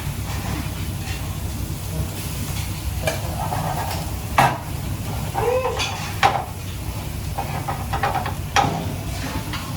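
Food frying in a pan while it is stirred, with a utensil knocking sharply against the pan three times, over a steady low rumble.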